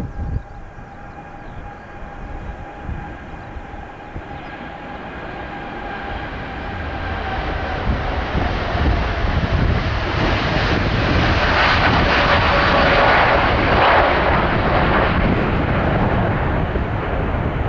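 Jet airliner departing: a steady engine whine that slowly drops in pitch under a rumbling roar that builds and is loudest about two-thirds of the way through. A brief low thump right at the start.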